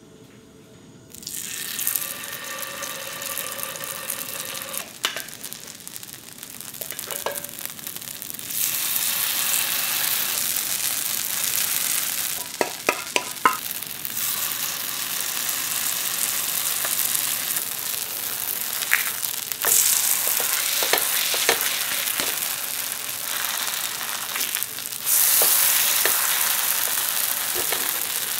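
Kale pancake batter sizzling in hot vegetable oil in a frying pan. The sizzle starts about a second in as the batter goes into the pan and grows louder in steps. A few sharp clicks of the spatula against the pan come about halfway.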